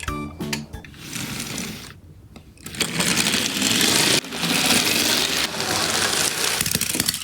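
Toy die-cast minicar rolling down a slope track, with a steady, loud rolling rattle of small wheels starting about three seconds in. A short snatch of background music is heard at the very start.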